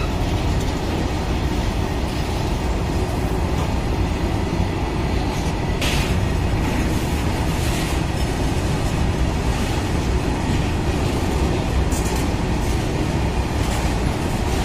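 Fully coal-loaded BOBRN hopper wagons of a freight train rolling past, a steady heavy rumble of steel wheels on the rails. A few short, sharp high-pitched sounds cut in over the rumble, the first about six seconds in.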